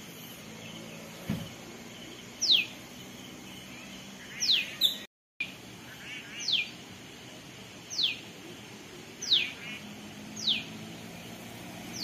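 A bird calling repeatedly: short, sharp whistles that fall steeply in pitch, one every second or two, over a faint low hum.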